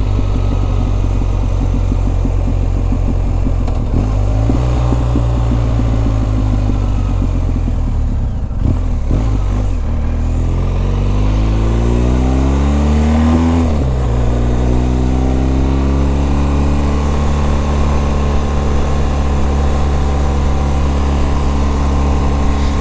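Motorcycle engine running while riding. About ten seconds in it speeds up, rising in pitch for a few seconds, then drops sharply as it shifts up and settles into a steady cruise.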